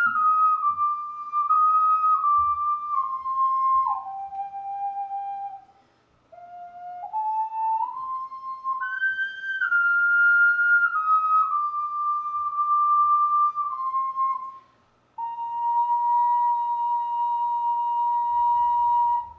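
Solo ocarina playing a slow melody in single, pure-toned notes: a phrase stepping downward, a brief pause, a phrase climbing up and stepping back down, then a short break and one long held note near the end.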